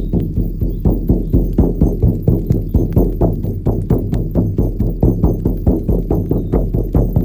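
Shaman's frame drum beaten in a steady even rhythm, about three strokes a second, each stroke deep.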